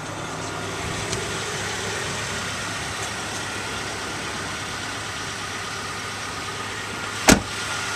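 Ford Ranger pickup's engine idling steadily, with one sharp click near the end.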